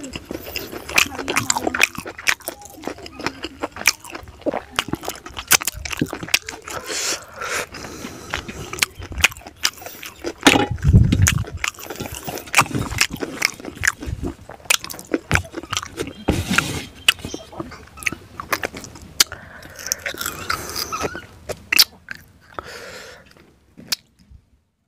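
Close-miked wet chewing and lip smacking of a person eating rice and fried fish by hand, with irregular clicks and fingers scraping a steel plate. A short, louder low hum comes about eleven seconds in.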